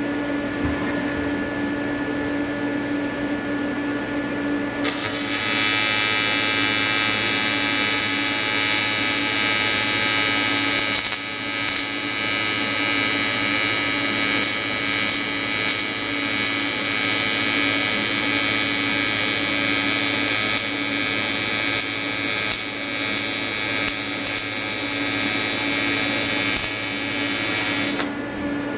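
AC TIG welding arc from an Everlast 325EXT set to advanced square wave, buzzing steadily while welding aluminium under pure argon. The buzz grows brighter and hissier about five seconds in and briefly thins near the end.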